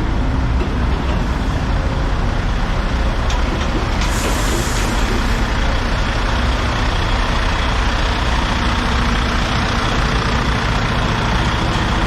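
Western Star dump truck's diesel engine running steadily with a low rumble, with a short hiss of released air about four seconds in.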